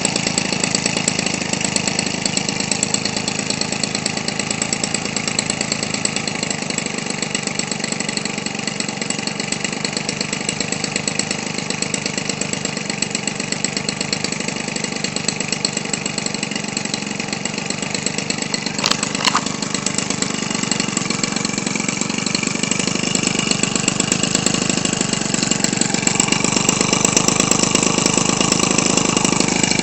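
Weed Eater Featherlite 21 cc two-stroke engine idling steadily; its speed and loudness pick up slightly near the end.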